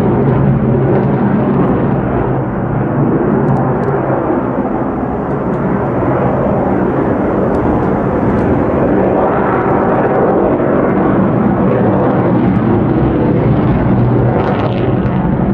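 Loud, steady jet noise from an F-35A Lightning II's single Pratt & Whitney F135 turbofan as the fighter flies its display, holding strong for the whole stretch with a slight dip a few seconds in.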